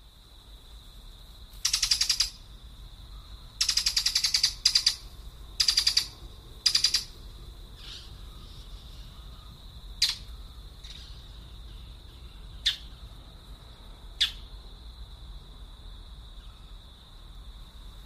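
Bird calls: four bursts of harsh, rapid rattling chatter in the first seven seconds, then a few single sharp chips spaced a couple of seconds apart. A steady high-pitched tone runs underneath.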